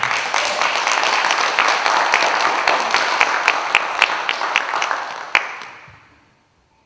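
Audience applauding, dense clapping that dies away after about five seconds.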